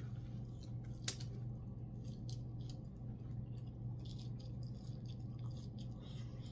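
Close-miked eating: chewing with many short smacking clicks, and one sharper click about a second in, over a steady low hum.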